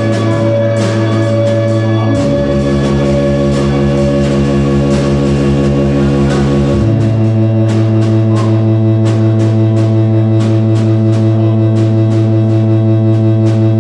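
Live acoustic-experimental band playing an instrumental passage without vocals. Sustained low droning notes change pitch about two seconds in and shift back around seven seconds, under a steady run of light percussion hits.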